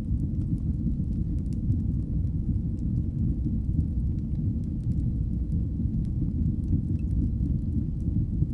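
Fire burning in a fireplace: a steady low rumble of flames with scattered faint crackles and pops.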